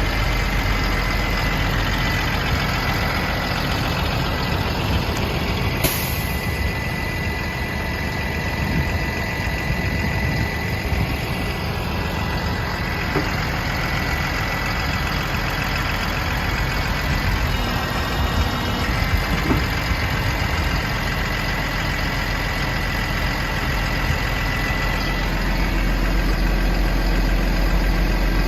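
2015 Kalmar terminal truck's diesel engine idling steadily, with a thin steady high whine over the rumble. A single sharp click about six seconds in.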